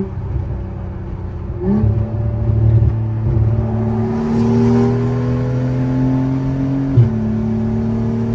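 Car engine pulling under acceleration, its note climbing slowly for several seconds, then dropping suddenly about seven seconds in at a gear change before it carries on.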